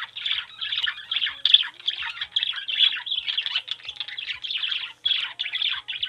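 Bird chirping and twittering: a dense, unbroken run of short, quick chirps.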